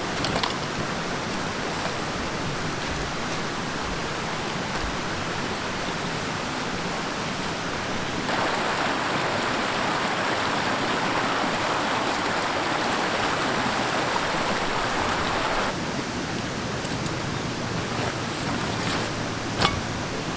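Mountain stream water rushing steadily, louder and brighter for several seconds in the middle. A couple of sharp clicks, one just after the start and one near the end.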